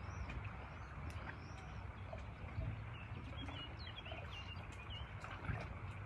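Small birds calling: repeated arching high notes in the first second or so, then a quick run of short chirps about halfway through. Beneath them is a steady low rumble.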